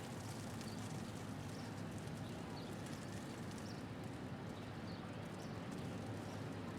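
Hailstones ticking in a dense, continuous patter of small hits over a steady low rumble of city traffic.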